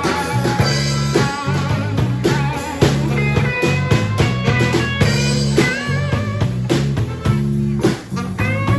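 Blues band playing an instrumental passage: a guitar with bent, wavering notes over bass and drums.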